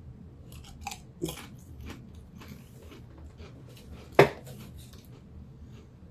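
A man chewing a Pringles potato crisp: a run of small irregular crunches, with one much louder sharp crack about four seconds in.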